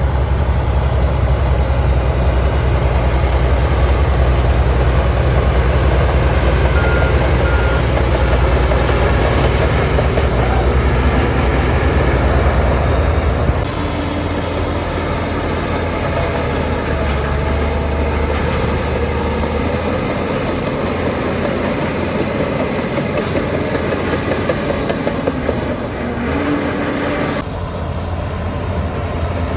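Diesel engines of heavy earthmoving machinery running with a steady, deep rumble. The sound drops in level about halfway through and changes again near the end.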